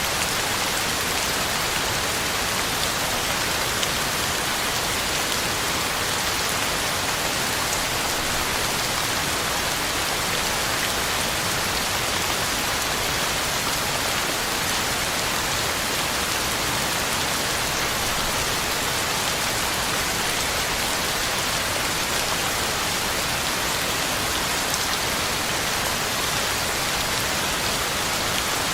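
Heavy rain falling steadily, drops pattering on the ground and leaves in an even, unbroken hiss.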